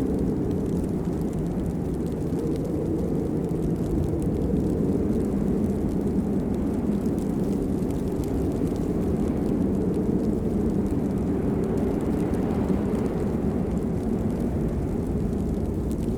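Steady rain, a dense even wash of sound weighted heavily to the low end, with faint scattered drop ticks over it.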